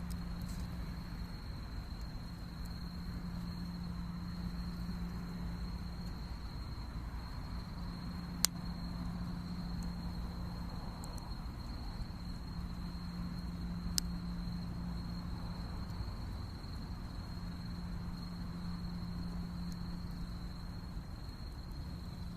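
Insects trilling steadily on one high note over a low background rumble, with two sharp clicks, about eight and fourteen seconds in.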